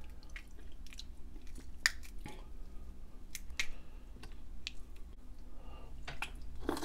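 Close-up chewing and wet mouth sounds of a person eating crab meat, with scattered short, sharp clicks and smacks.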